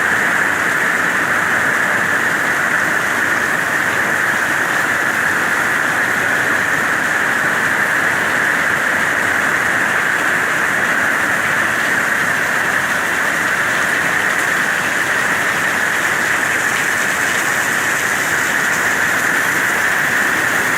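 Heavy tropical-storm rain falling steadily and without let-up.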